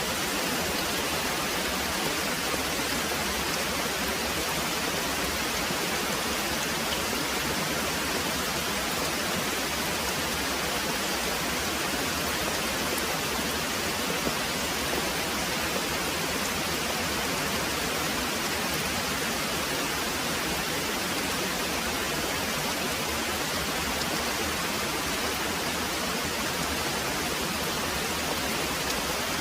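Very heavy rain pouring steadily, a dense, even hiss at a constant level.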